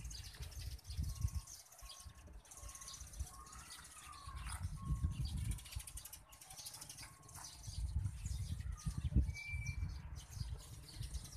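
Birds chirping, with a short note repeated about twice a second for a few seconds and a brief higher whistle near the end, over low rumbling noise on the phone's microphone.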